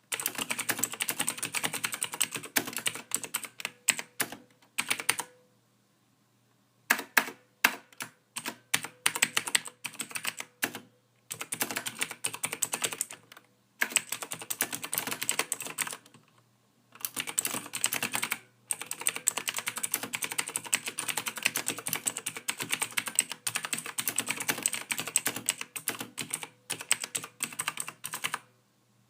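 Typing on a computer keyboard: fast runs of key clicks in bursts, broken by several short pauses of about one to two seconds.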